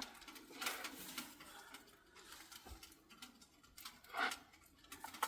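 Soft rustling of bedding being handled, in a few brief bursts, about a second in and again near the end.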